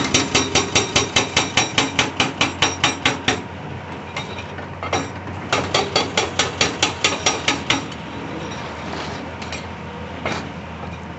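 Hydraulic breaker on a CAT 349E excavator hammering rock in rapid, evenly spaced strikes, stopping about three seconds in, then starting again for two more seconds of strikes. Between runs the excavator's engine runs steadily underneath, with a lone strike near the end.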